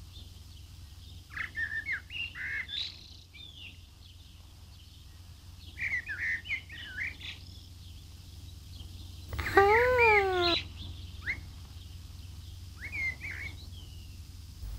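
Small birds chirping in short, scattered calls over a steady low hum, with one louder tone, about a second long, that rises and then falls in pitch about two-thirds of the way through.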